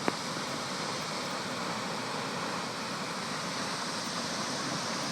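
Waterfall rushing: a steady, even roar of falling water, with a brief click at the very start.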